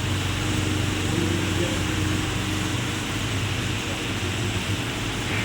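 Steady industrial machine hum from an electric heat-treatment furnace installation: a constant low drone with a broad hiss over it, unchanging in level.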